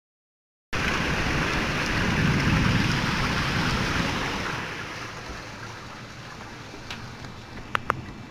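Heavy rain falling during a thunderstorm, starting abruptly, with a low rumble of thunder that swells and then fades over a few seconds. A couple of sharp clicks come near the end.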